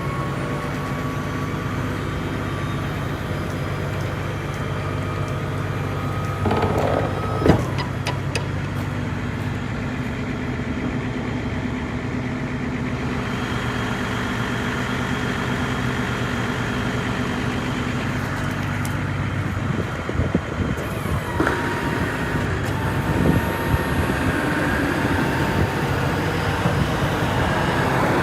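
Truck engine idling steadily. Over it, a whine rises slowly in pitch and cuts off with a sharp knock about a quarter of the way in. Another whine starts about three-quarters of the way in and holds steady, with a few small knocks around it.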